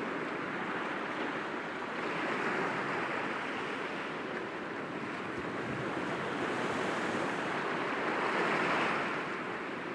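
Gentle sea waves washing against rocks, a continuous rush that swells twice, about two seconds in and again near the end.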